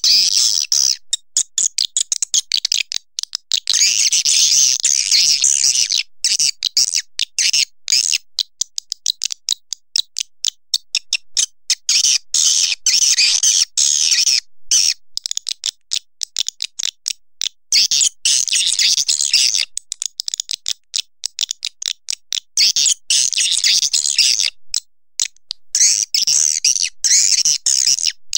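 Swiftlet calls: a fast, continuous run of sharp clicks, with bursts of high twittering chirps every few seconds.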